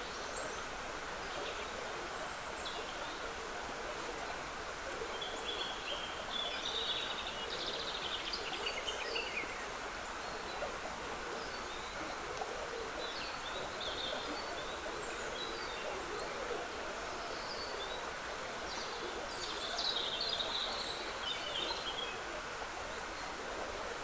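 Trickling water running steadily, with songbirds singing high, chirping phrases over it; the loudest bursts of song come about a quarter of the way in and again near the end.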